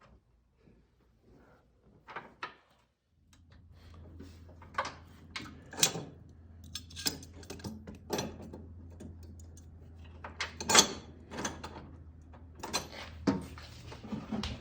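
Small metal parts clinking and knocking as spacers and hardware are handled and fitted onto the studs of a strut mount plate, in irregular sharp strokes. A steady low hum sets in about three seconds in.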